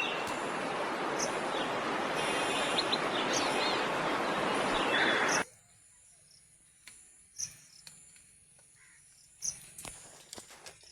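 Steady rushing storm noise with a few short bird chirps. It cuts off suddenly about five seconds in, leaving only faint clicks and ticks.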